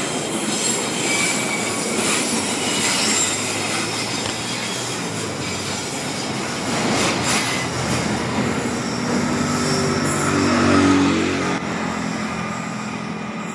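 Passenger train coaches rolling past on a curve, the wheels squealing against the rail and clicking over the rail joints. The sound drops off after about 12 seconds as the last coach pulls away.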